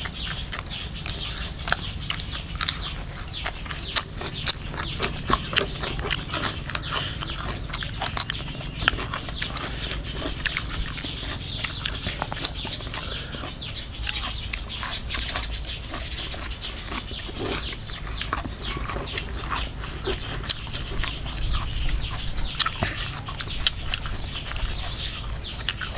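Someone chewing and smacking their lips close to the microphone while eating fermented sour beef, with many small wet clicks throughout.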